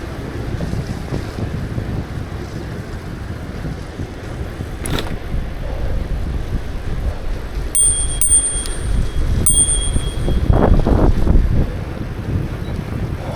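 Bicycle bell rung twice, each strike ringing on briefly, a little under two seconds apart, over steady wind rumble on the microphone from riding.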